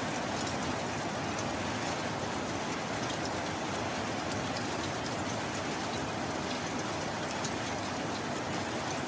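Steady heavy rain: an even wash of rain noise with scattered individual drop ticks and no thunder.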